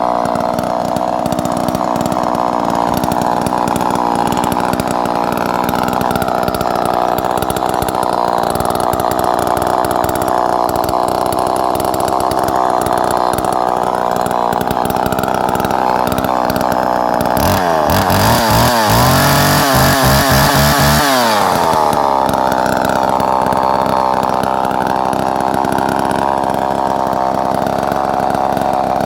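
Homelite two-stroke chainsaw running steadily. About two-thirds of the way through, the engine revs higher for about three seconds and then drops back.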